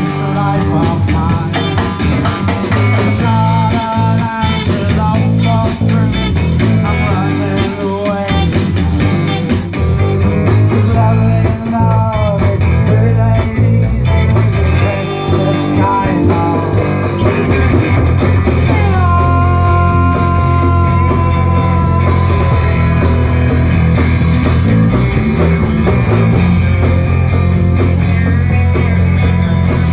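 Live rock band playing: electric guitar melody lines with bent notes over a steady bass and drums. About two-thirds of the way through, one long held note slides down into place and sustains.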